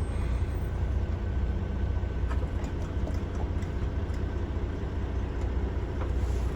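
Semi truck's Cummins diesel engine running steadily as the truck drives, a low steady drone with a faint whine above it and a few light clicks.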